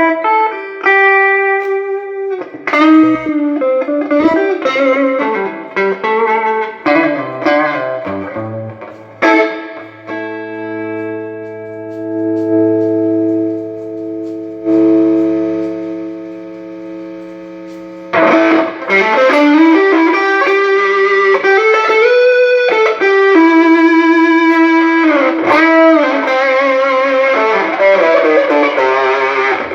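Electric guitar played through a late-1980s Peavey Deuce VT tube amp, working again after a repair. Picked notes and short phrases give way to a long chord left to ring out about ten seconds in, then louder, busier playing from about eighteen seconds.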